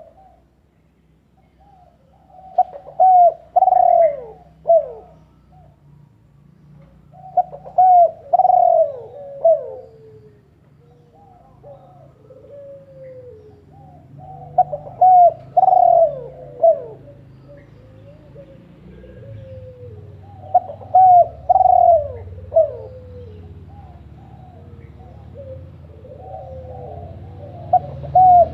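A bird calling in repeated phrases of several short falling notes, a phrase about every six seconds, over a faint low hum.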